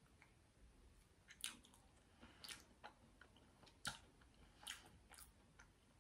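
Faint chewing of a mouthful of cream pastry: soft, wet mouth clicks every second or so.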